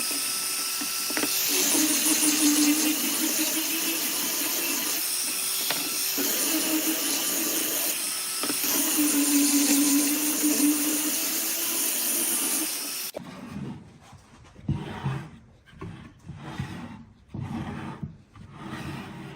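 A woodworking power tool running with a steady hiss and hum that swells in stretches as it cuts. It cuts off suddenly about thirteen seconds in, giving way to quieter rhythmic rubbing strokes on wood, about one or two a second.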